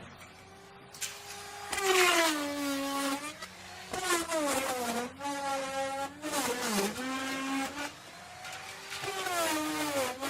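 Electric wood router running and cutting into wood, its motor whine sagging in pitch each time it bites into the cut and climbing back as it frees up, several times over. It is quieter for the first second or two, then louder.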